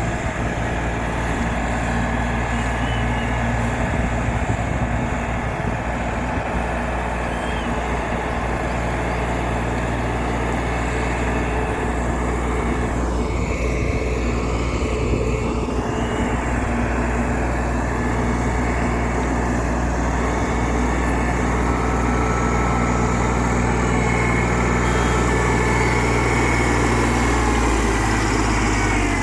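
Mini backhoe loader's engine running steadily, its note shifting slightly a couple of times.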